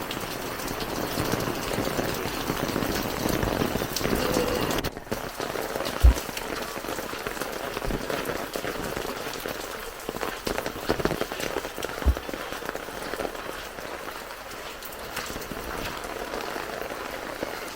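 Heavy rain falling steadily and pattering on surfaces, with two dull thumps about six seconds apart, the first one loudest.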